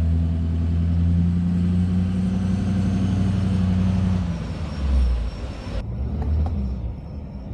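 A vehicle engine running steadily. It changes about four seconds in, and the sound shifts abruptly near six seconds, as if at a cut.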